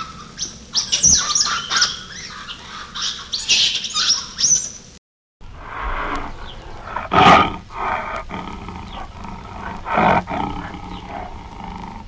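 Capuchin monkey giving rapid high-pitched squeaks and chirps for about five seconds. After a brief cut, a tiger growls and roars, with two loud roars about seven and ten seconds in.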